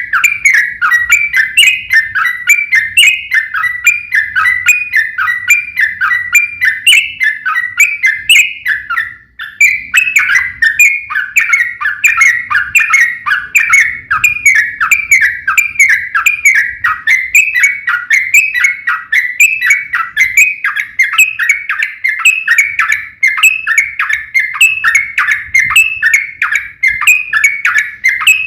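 Yellow-vented bulbuls (trucukan) singing in a fast, unbroken run of short whistled notes, several a second, as in a duel between birds, with one brief break about nine seconds in.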